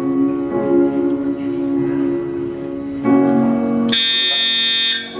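Soft live band accompaniment with sustained notes. About three seconds in, a loud building emergency alarm cuts in with a harsh electronic horn tone. A higher, shrill tone joins it about a second later, and both cut off just before the end.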